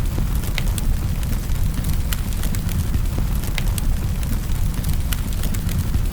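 Wood fire in a fireplace crackling, with sharp pops every second or so over a steady low rumble, mixed with a constant hiss of rain.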